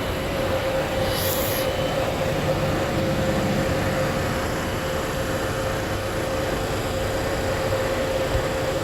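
Baltimore Metro Subway train running slowly on the track, with a steady tone held throughout and a short hiss about a second in.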